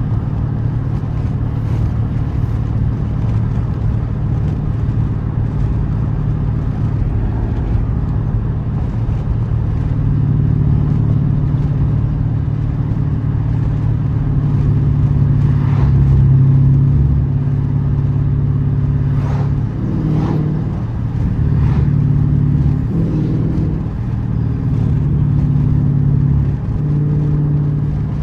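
Straight-piped 6.4-litre Hemi V8 of a 2012 Dodge Charger SRT8 running under way, heard from the driver's seat. Its steady exhaust note swells louder and eases back several times as the car accelerates and lets off.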